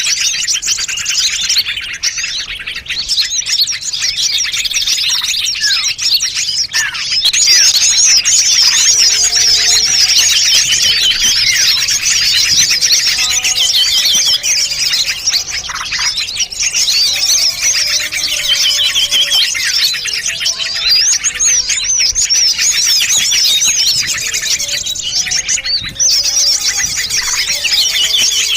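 Dense, nonstop chorus of many small songbirds chirping and twittering over one another, a mixed-species bird-lure (pikat) recording. The chattering gets louder about seven seconds in.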